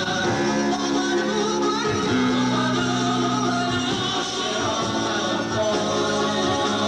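A choir singing, with long held notes, in a concert performance.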